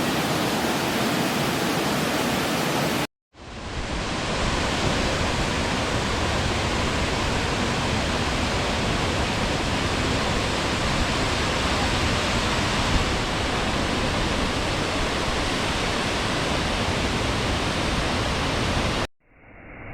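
Waterfall: falling water rushing steadily, with a brief drop to silence about three seconds in and a sudden cut near the end, where the footage changes from one falls to the next.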